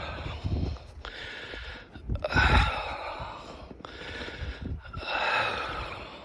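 A person breathing hard and close to the microphone while walking, in a steady run of breaths about one every second and a quarter, with low rumble underneath.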